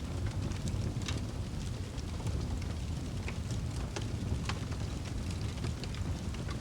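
Wood fire burning in a fireplace: a steady low rumble of flames with scattered crackles and pops from the burning wood.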